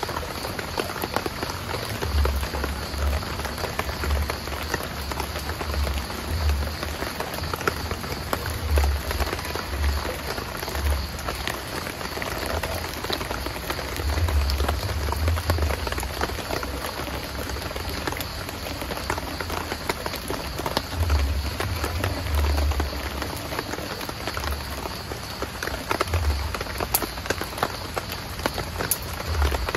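Heavy rain falling steadily, a dense hiss of many small drop impacts, with irregular low rumbles every few seconds.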